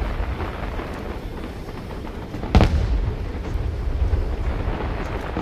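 Aerial fireworks: one sharp boom of a shell bursting about halfway through, over a steady low rumble of other bursts.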